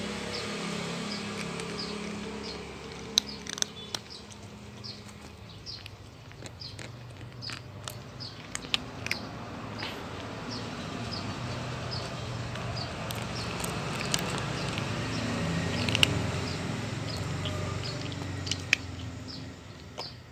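A cat chewing food, with scattered sharp clicks. Short high chirps repeat about two to three times a second in the background.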